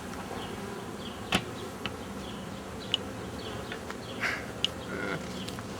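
Honey bee swarm buzzing steadily as a hanging cluster, with a few brief sharp clicks over it.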